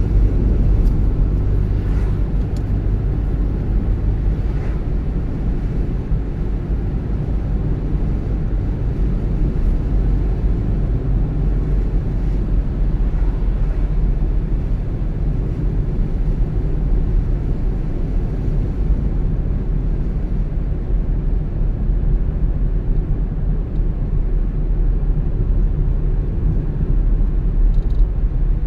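Steady low road and engine rumble of a car driving at cruising speed, heard from inside the cabin.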